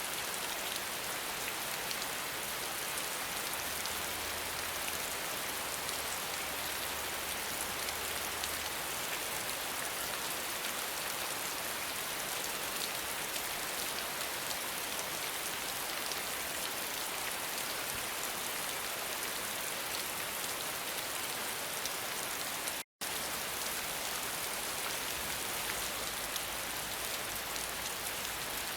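Steady rain falling: a dense, even hiss with fine patter of drops. It cuts out to silence for an instant about three quarters of the way through, then carries on unchanged.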